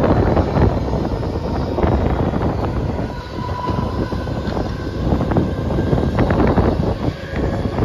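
Mumbai suburban local train running on the track, heard from its open doorway: steady loud rumble of wheels on rails with irregular clatter over joints and points, and a faint high whine in the middle.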